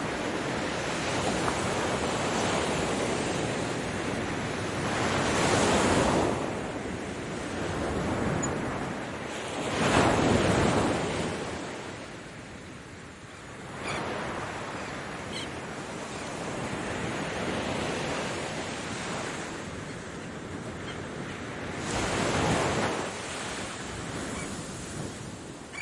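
Ocean waves breaking and washing on the shore in a steady surge, with louder swells about six, ten and twenty-two seconds in, and some wind on the microphone.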